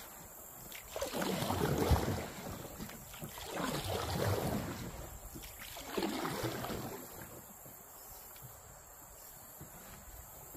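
Canoe paddle strokes swishing through the water, three in a steady rhythm about every two and a half seconds, then a quieter stretch near the end.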